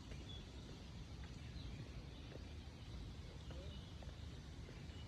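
Quiet natural ambience: faint, scattered bird chirps over a low, steady rumble.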